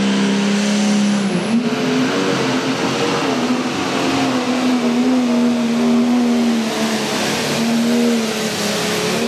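Pro stock pulling tractor's turbocharged diesel engine running hard at high revs, its pitch stepping up about a second and a half in and then wavering. The engine sound cuts off sharply at the very end.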